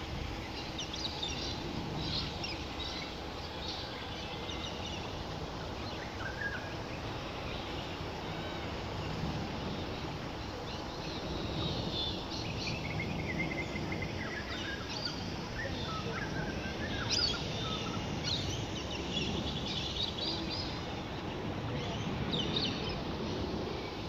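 Birds calling and chirping in short scattered notes, with a run of falling notes about halfway through, over a steady low rumble.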